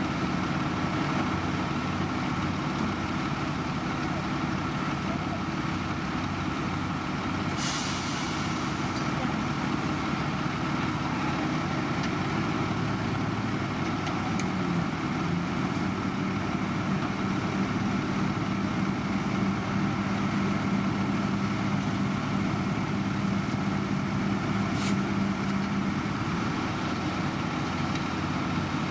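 Heavy diesel road-construction machinery running steadily, with a short sharp hiss of air about eight seconds in. A steady low hum joins about halfway through and stops near the end.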